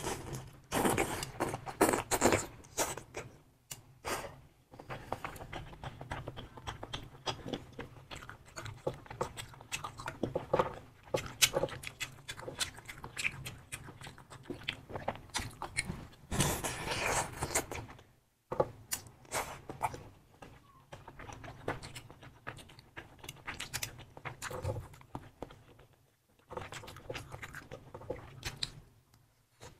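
Close-miked chewing and biting of sausages in a thick sauce: wet mouth clicks and smacks in quick, uneven runs, with a couple of brief pauses.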